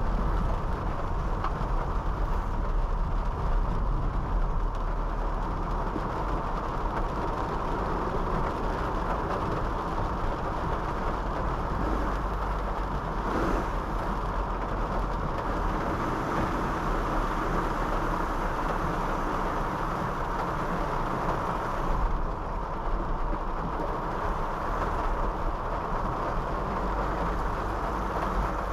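Steady road noise of a Honda City sedan driving on a wet road: a low rumble with tyre noise. There is one brief bump about halfway through.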